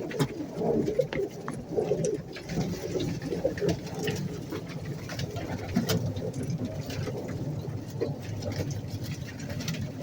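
Many pigeons cooing together in a loft, a continuous low warbling chorus, with scattered sharp taps and clicks throughout.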